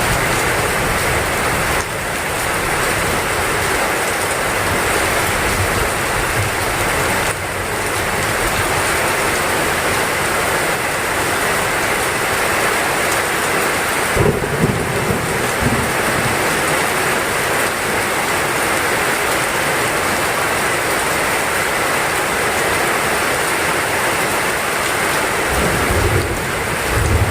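Heavy rain falling steadily, with low rumbles of thunder about halfway through and again near the end.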